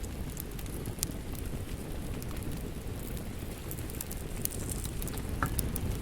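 Wood fire crackling: scattered sharp crackles and pops over a steady low rumble, with a slightly louder pop about five and a half seconds in.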